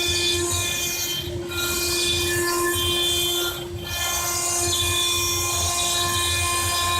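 CNC stone-working machine running, a steady multi-tone whine over a low rumble and hiss that dips briefly twice.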